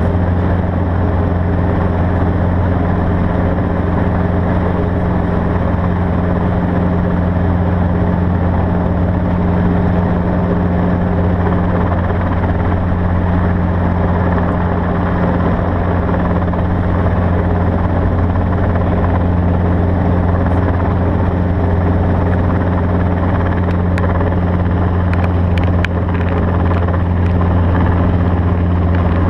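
A steady engine drone, a constant low hum with an unchanging pitch, with a few faint clicks near the end.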